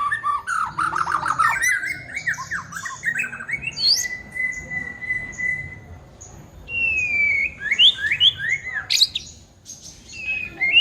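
White-rumped shama (murai batu) singing: a run of rapid chattering notes, then a long steady whistle, a falling whistle, and a string of quick rising sweeps and sharp notes.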